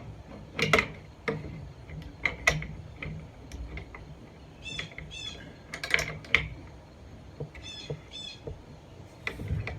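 Scattered metallic clicks and knocks of a wrench working a lock nut on a bolt, with two short runs of bird chirps in the background, about five and eight seconds in.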